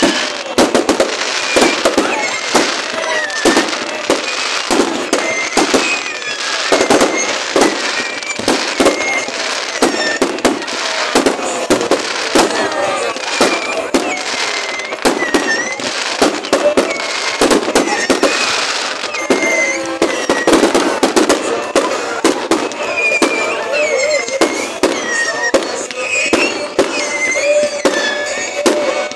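Fireworks display going off: a dense, continuous run of bangs and crackles, several a second.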